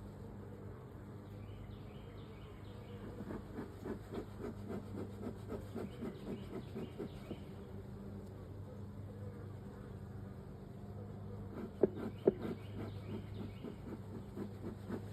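Honeybees buzzing in a steady hum around an open hive, with stretches of rapid pulsing in the buzz. Two sharp clicks sound just before and just after twelve seconds in.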